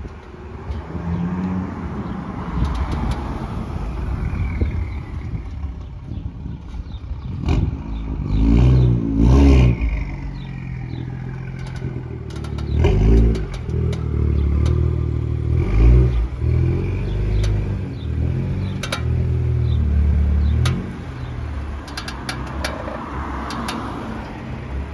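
BMW M2 engine running under varying load, with sharp clicks coming now and then from the chassis. The owner has ruled out the brakes, lower control arms and wheels and suspects the KW coilovers.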